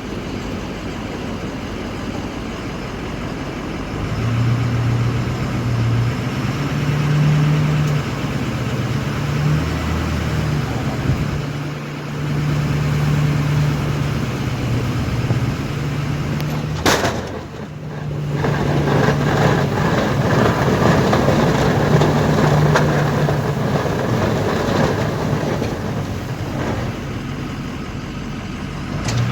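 Pickup truck engine and road noise from inside the cab while driving, the engine note stepping between two pitches. A single sharp click comes about 17 seconds in.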